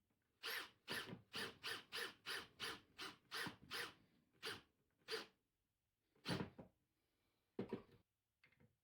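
Wood being rubbed or scraped in quick back-and-forth strokes, about three a second for several seconds, then a few slower, spaced strokes.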